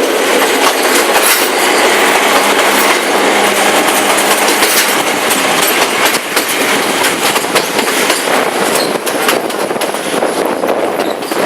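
A passenger train running along the line, its wheels clacking over the rails with frequent irregular clicks above a steady rushing noise.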